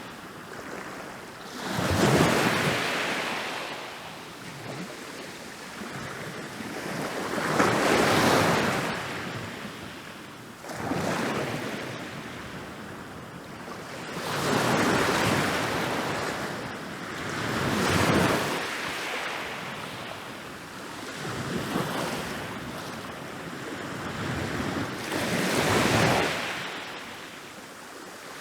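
Ocean waves rolling in and breaking on a beach. Each wave swells to a crash and then washes out, one every few seconds, the loudest about two and eight seconds in.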